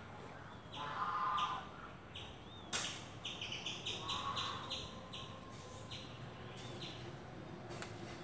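Birds chirping repeatedly in the background, in quick runs of short high calls, with two louder, coarser calls about a second in and about four seconds in and a single sharp click a little before the three-second mark.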